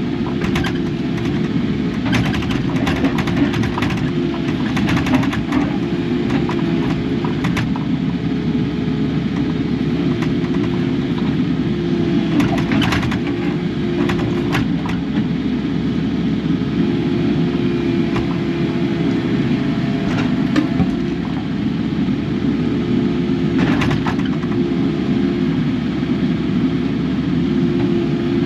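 Kubota KX080 excavator's diesel engine running steadily under work. Occasional short knocks and scrapes sound over it.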